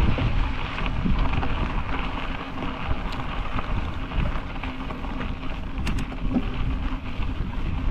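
Wind buffeting a bike-mounted GoPro's microphone as the bicycle rolls along, a steady rumbling rush with a couple of sharp ticks from the bike, about three and six seconds in.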